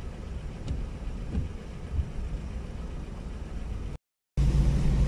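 Car engine idling, heard from inside the cabin as a steady low rumble. About four seconds in the sound drops out for a moment, then comes back as a louder steady low rumble.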